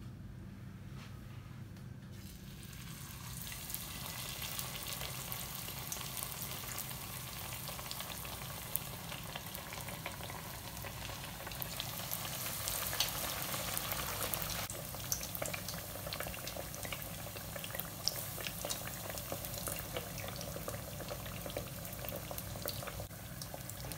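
Mini martabak parcels in spring-roll wrappers deep-frying in hot oil: steady sizzling with scattered small pops and crackles, starting up about three seconds in as they go into the oil.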